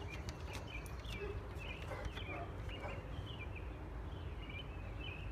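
Small birds chirping in short, quick, repeated calls over a low steady rumble, with a few faint clicks in the first few seconds.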